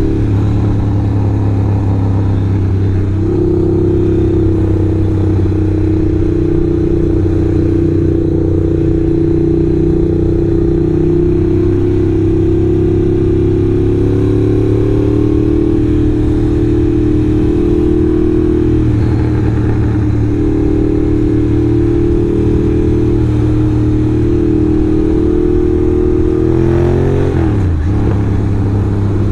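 Ducati motorcycle engine running steadily at cruising speed. Its pitch falls briefly near the end, then climbs back up.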